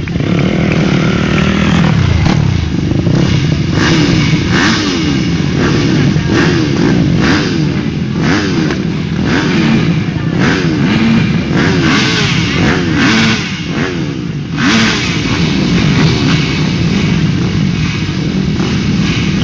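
A pack of motocross bikes of up to 250 cc revving together, many engine notes rising and falling over one another without a break.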